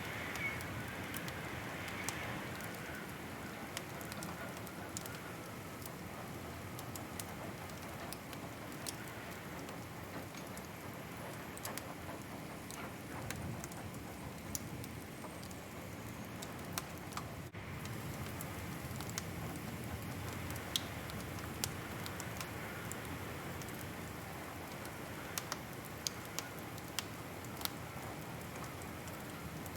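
Wood fire crackling: a steady soft rush with scattered sharp pops and snaps, a run of louder pops near the end.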